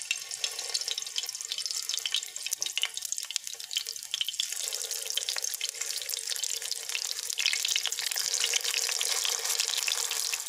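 Potato kababs sizzling in hot oil in a frying pan: a dense crackle of many small pops. It grows a little louder about two-thirds of the way through, as more patties go into the oil.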